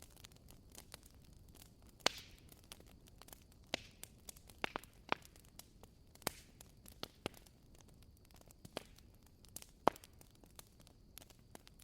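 Burning firewood crackling, with irregular sharp pops over a faint hiss; the loudest pops come about two seconds in and near the end.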